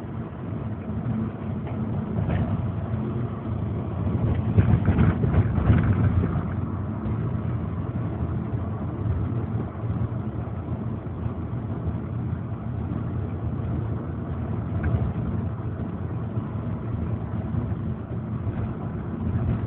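Volkswagen Beetle driving along, its engine and road noise heard from inside the cabin as a steady low drone. The drone swells for a couple of seconds about four to six seconds in.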